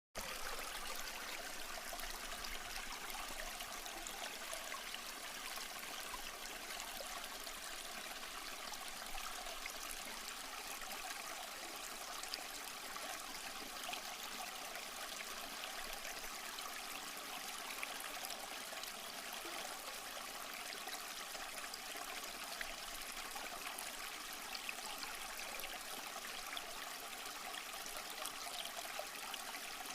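Waterfall splashing and trickling steadily, a constant bright water noise with small splashes scattered through it and little deep rumble.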